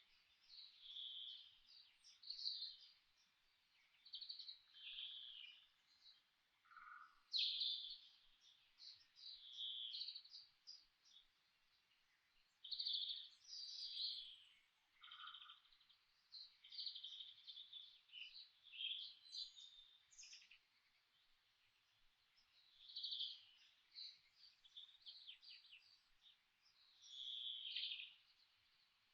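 Forest birds singing: short twittering song phrases follow one another every second or two, with an occasional lower note.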